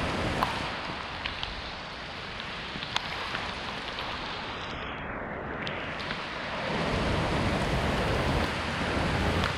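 Heavy rain pouring down steadily, with scattered close drops striking sharply. About seven seconds in, a louder low rush joins it.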